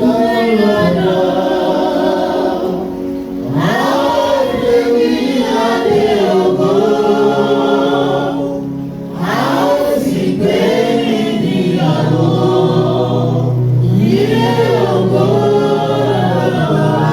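Choir singing a gospel hymn in phrases several seconds long over steady held low notes, with short breaths between phrases about three and a half seconds in and again about nine seconds in.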